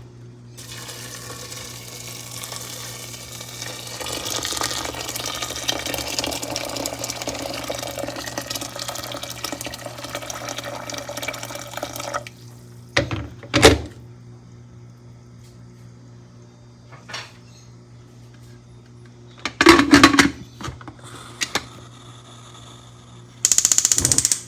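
Kitchen tap running water into a pressure cooker of beans for about twelve seconds, then stopping. Afterwards come a few sharp knocks and clatters of cookware, the loudest about 14 and 20 seconds in, and a short burst of hissing noise just before the end.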